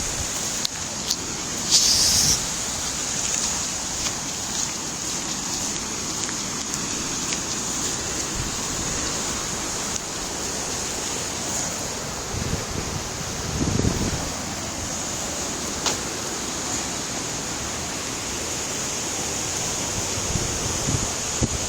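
Steady rush of floodwater, with wind buffeting the microphone in low rumbles. A brief louder hiss comes about two seconds in.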